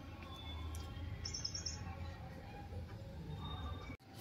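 Birds chirping: a quick run of about five short, high chirps about a second in, with fainter calls here and there over a low steady hum.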